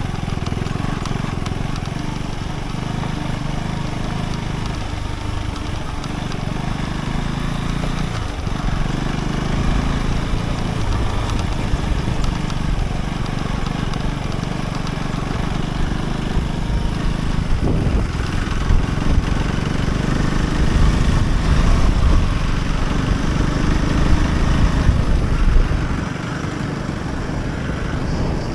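Husqvarna Svartpilen 401's single-cylinder engine running as the motorcycle is ridden. The engine note holds steady at first and dips a couple of times, then a louder rough rumble builds past the middle and drops away suddenly near the end.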